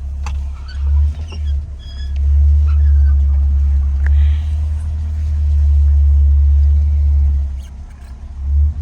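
1983 Toyota Corolla KE70 on the move, a loud low rumble of engine and road heard from inside the cabin, swelling and easing.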